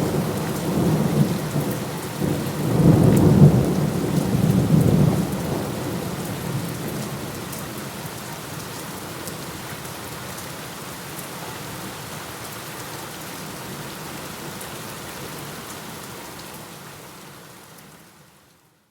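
Thunder rumbling over steady rain, loudest about three seconds in and dying away. Near the end the whole sound fades out to silence.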